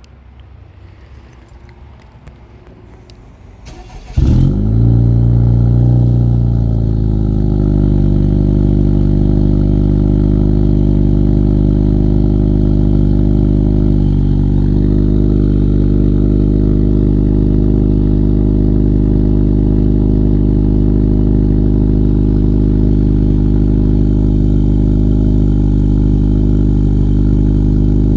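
Honda Accord 2.0T turbocharged four-cylinder with an aftermarket downpipe, front pipe and Thermal R&D cat-back exhaust cold-starting: a brief crank about four seconds in, then the engine catches with a loud flare of revs and settles into a steady idle.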